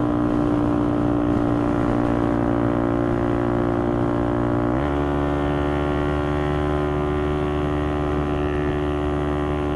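Motorcycle engine and exhaust running steadily on the move, with wind noise; the engine note changes abruptly about halfway through.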